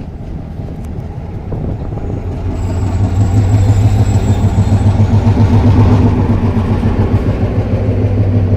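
Train passing close by: a low rumble that grows louder over the first three seconds and then stays loud, with a faint high whine for a couple of seconds.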